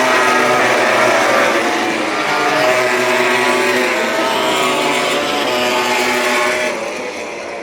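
Motorcycle engines running at high revs, a dense high-pitched engine sound that eases off near the end.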